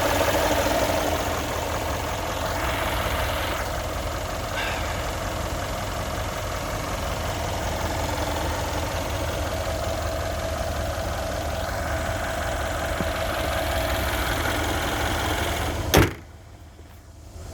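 Mercedes-AMG engine idling steadily after a cold start from two weeks of sitting. Near the end comes a single sharp knock, after which the sound drops away abruptly.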